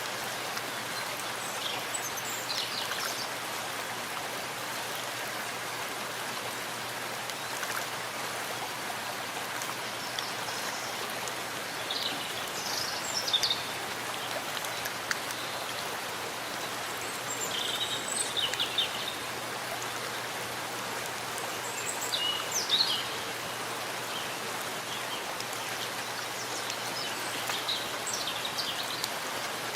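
Steady rain falling in a forest, an even hiss of drops on leaves and ground. A few short, high-pitched sounds stand out over it now and then.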